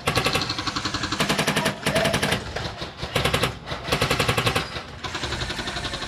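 Airsoft M249 light machine gun with a Polarstar HPA engine firing full-auto in about five short bursts, each a rapid, even string of shots. Fainter fire follows in the last second.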